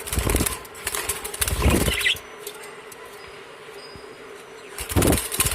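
Birds flapping their wings in bursts of rapid fluttering: several close together in the first two seconds, then another near the end.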